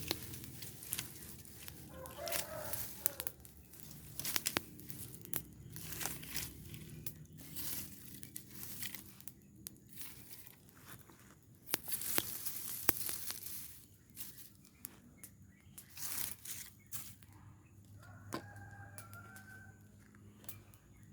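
A rooster crowing twice, near the start and near the end, over the irregular crackling and snapping of a burning rubbish pile.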